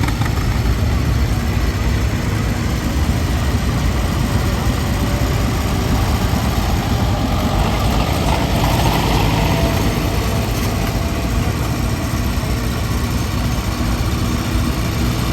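Vintage tractor engine running hard, with a heavy low throb, as it pulls the weight sled down the track. It swells briefly about eight seconds in.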